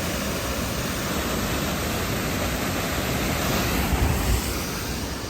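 Waterfall rushing: a steady, loud roar of cascading water close by.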